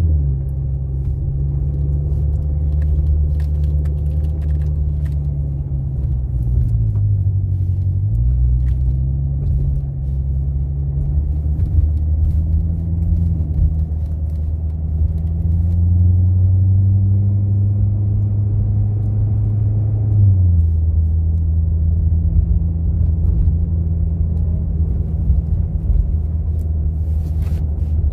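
Sports car engine running under way with road rumble. Its note dips and climbs again around eight seconds in, rises steadily, then drops suddenly at a gear change about twenty seconds in.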